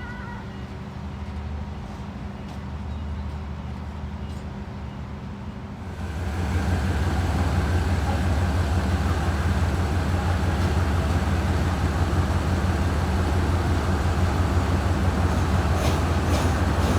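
Diesel train engine running steadily with a low hum, then growing clearly louder into a fuller rumble about six seconds in and holding there.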